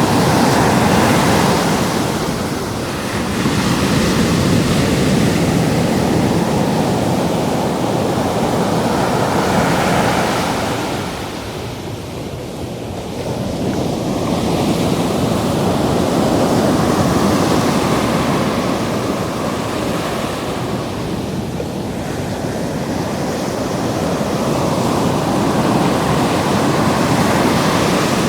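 Ocean surf washing in and out around the ankles of someone wading at the water's edge, the rush swelling and ebbing as waves come in. A dip comes about twelve seconds in, with a smaller one around twenty seconds. Wind rumbles on the microphone.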